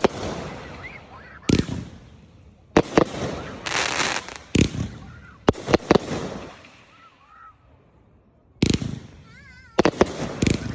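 Consumer fireworks going off: a string of about ten sharp bangs, some close together in pairs, with crackling after the bursts around three to four seconds in, a short lull, then more bangs near the end.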